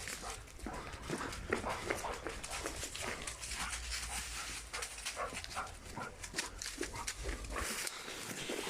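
A tracking dog breathing hard and sniffing quickly as it works a scent trail, with many short, rapid sounds throughout and a low rumble in the middle.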